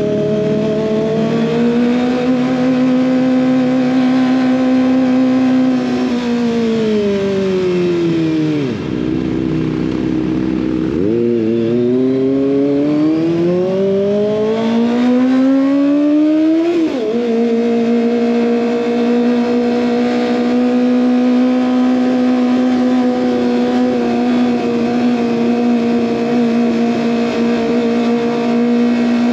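Kawasaki ZX25R's 250 cc inline-four running through an SC Project exhaust. The revs hold steady, fall away to a low note around seven to nine seconds in, then climb again in one long pull. They drop sharply at a gear change about seventeen seconds in and hold steady after that.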